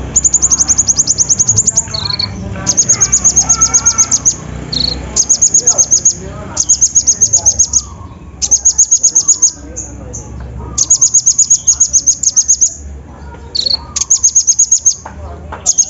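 Brown-throated sunbird (kolibri ninja) singing a very high, rapid trill of about ten notes a second, in bursts of one to two seconds repeated after short pauses. Softer, varied bird chirps and a low hum run underneath.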